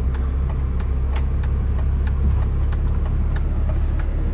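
Steady low rumble of a car running, with light ticks a few times a second.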